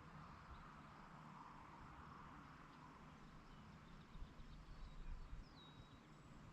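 Faint rural evening ambience: a steady distant chorus, with a few faint bird chirps and one short whistled bird note that drops in pitch and holds near the end. A low rumble rises and falls about two-thirds of the way through.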